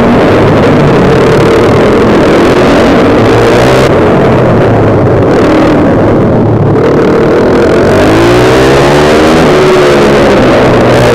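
Small engine running hard through a lap of a karting track. Its pitch falls from about four seconds in, as it slows, and climbs again from about eight seconds as it accelerates.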